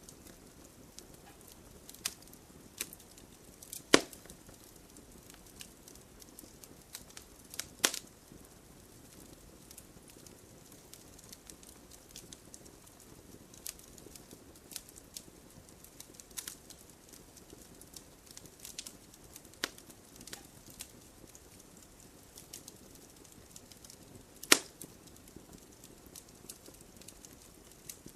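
Campfire burning with a soft steady hiss and scattered crackles and pops, three of them sharper and louder, about 4, 8 and 24 seconds in.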